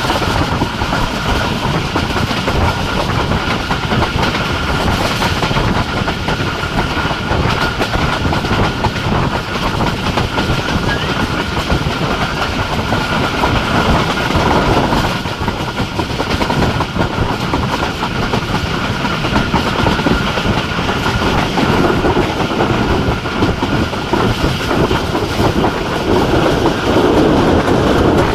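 Jaffar Express passenger train running at speed, its wheels clattering steadily over the rail joints with a continuous high whine.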